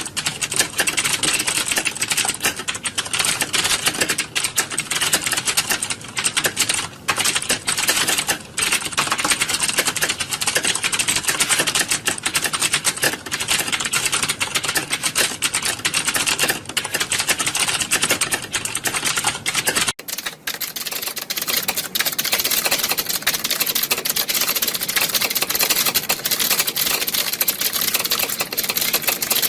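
Many computer keyboards being typed on at once: a dense, continuous clatter of key clicks, like a hall full of people sitting a typing test. About two-thirds of the way in, the low rumble under the clatter drops away.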